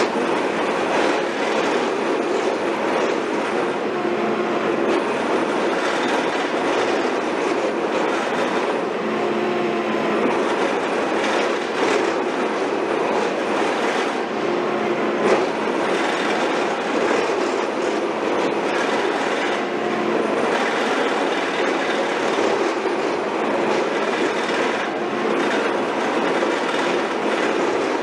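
Heavy construction machinery working: a steady engine drone with continuous metallic clatter and squealing, like steel tracks or drilling gear grinding, unchanged throughout.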